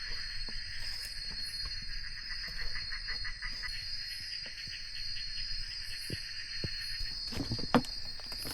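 Steady chorus of jungle insects: a high continuous drone over a rapidly pulsing trill. A few sharp knocks or taps come near the end, one much louder than the rest.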